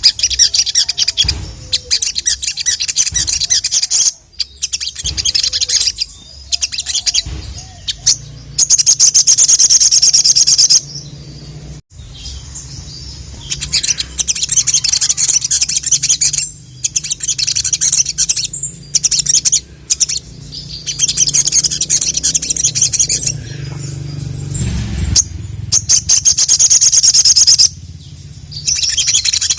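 Little spiderhunter (sogok ontong, sogon) singing in fast, high chirping trills. The trills come in bursts of two to three seconds, repeated several times with short pauses, over a faint low hum.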